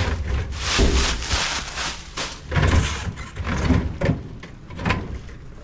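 Cases of soda being shifted and stacked by hand: repeated rustling and scraping with dull thumps as the cases are set down on one another.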